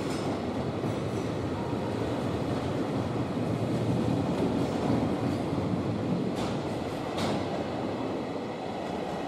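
JR Freight container wagons rolling past at speed: a steady noise of steel wheels on rail, with two brief sharper noises about six and seven seconds in.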